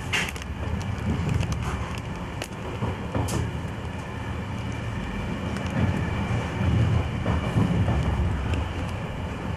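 Passenger train running along the line, heard from inside the carriage: a steady low rumble of wheels on rails, with a few sharp clicks in the first few seconds.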